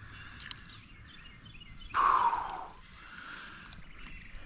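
A single harsh bird call about two seconds in, falling slightly in pitch, over steady outdoor background noise.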